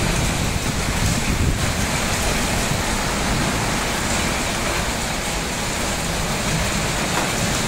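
Heavy rain pouring steadily onto a flooded street and paving, with wind buffeting the microphone.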